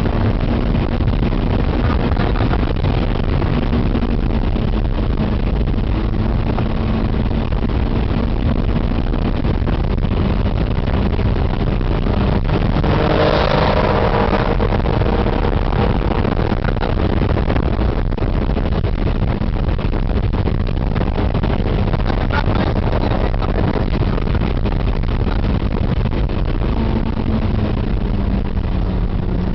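Honda S2000's four-cylinder engine running steadily under load, heard from inside the cabin with road and wind noise. About halfway through, another car's engine note swells louder for a couple of seconds as it passes alongside.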